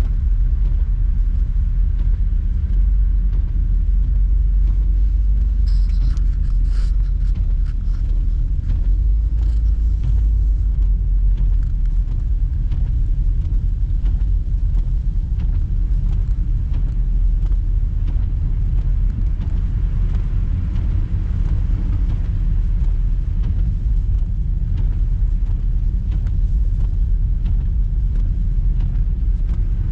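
Strong snowstorm wind making a loud, steady low rumble.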